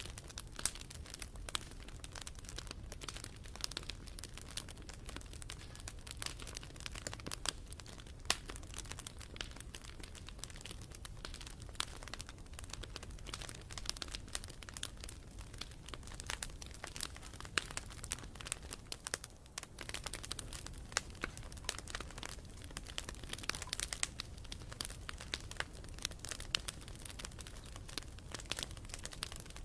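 Wood campfire crackling: dense, irregular pops and snaps over a steady low background.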